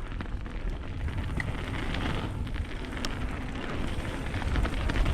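Mountain bike rolling down a dirt jump trail: a steady rumble of tyres on dirt, with wind noise on the helmet or chest camera's microphone.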